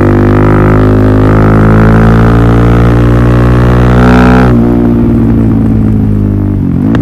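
Suzuki DR-Z400SM single-cylinder four-stroke engine through a Yoshimura full exhaust system, running loud and steady at a held engine speed. The sharper upper part of the exhaust note cuts off about four and a half seconds in as the throttle eases, and the lower drone carries on.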